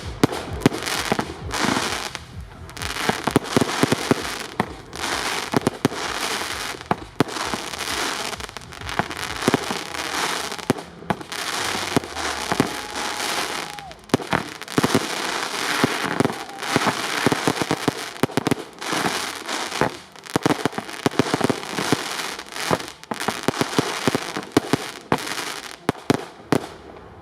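Fireworks display fired close by: a dense, irregular run of sharp bangs with crackling and hissing between them, the reports coming several a second with short lulls.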